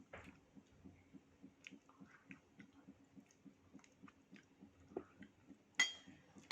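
Close-miked chewing and mouth sounds of someone eating durian and iced mung bean dessert, about three chews a second with small wet clicks. A sharp clink near the end.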